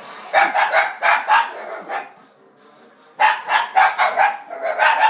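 A dog barking in quick runs: several barks in the first two seconds, a short pause, then another run of barks from about three seconds in.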